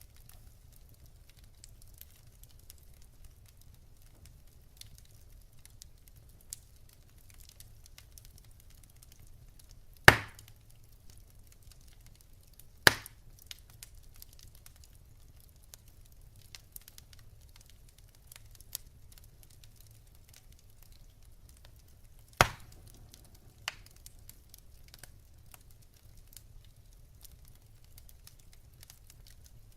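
Wood fire burning in a fireplace, logs crackling with scattered small ticks and three loud sharp pops at about ten, thirteen and twenty-two seconds in.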